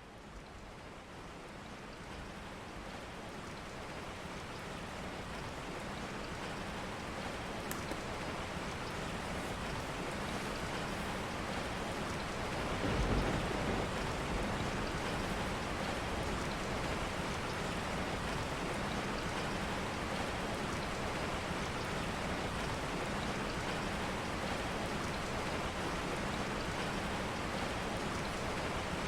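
Steady rain falling, fading in over the first several seconds and then holding even, with a brief low rumble about halfway through.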